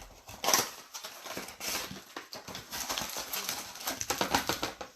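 Trading card packs being handled: foil wrappers crinkling and cards flicking and sliding against each other in a quick, irregular run of clicks that gets denser in the second half.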